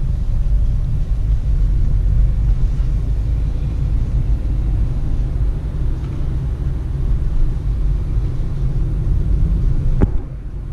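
Steady low rumble of road and drivetrain noise inside the cabin of a moving Peugeot Partner van, with a brief click near the end.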